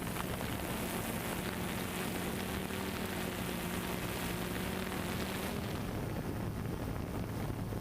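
Multirotor drone's propellers whirring: a steady hum over a hiss. About five and a half seconds in, the hiss dulls and the hum drops to a lower pitch as the motors change speed.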